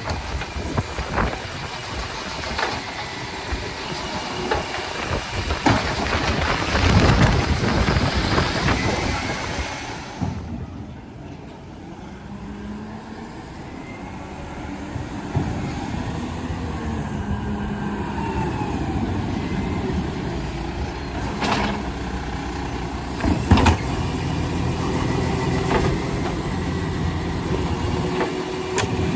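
Garbage truck's diesel engine running, with strong wind buffeting the microphone that drops away suddenly about a third of the way in. A couple of sharp knocks come later on.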